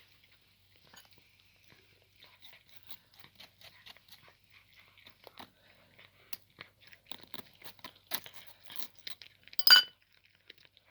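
A cat crunching and chewing cooked chicken neck bones: a run of small, quick crunches that grow denser and louder, with one much louder sharp sound about a second before the end.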